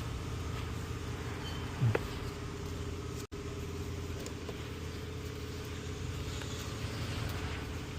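Mercedes-AMG C63's twin-turbo V8 idling steadily, with a brief cut in the sound about a third of the way in.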